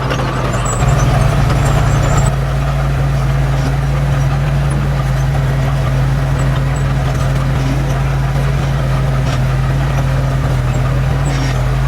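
Diesel engine of heavy earthmoving machinery running steadily with a low drone, briefly a little louder about a second in.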